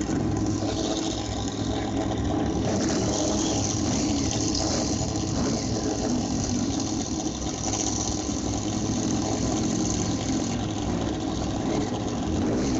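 Motorcycle engine running at steady revs, with a constant wash of noise over it.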